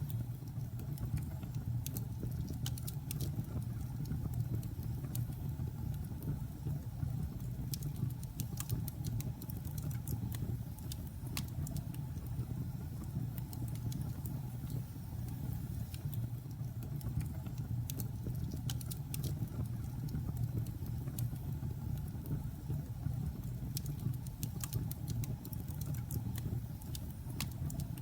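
Logs burning in a fireplace: a steady low rumble of the fire with irregular sharp crackles and pops from the burning wood, some coming in quick clusters.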